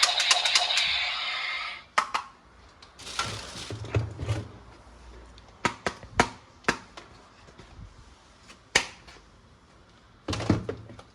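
Electronic background music with a beat that stops about two seconds in, followed by scattered sharp clicks and knocks of plastic toy gun parts being handled.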